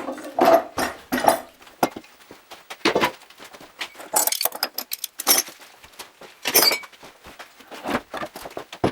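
Irregular clinking and knocking of small hard objects being handled.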